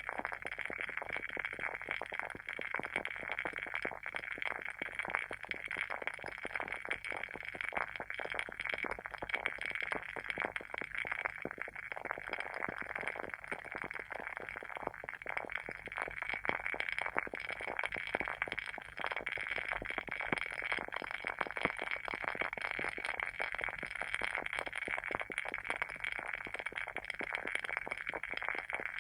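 Wooden wick of a WoodWick candle burning, crackling densely and continuously like a small bonfire.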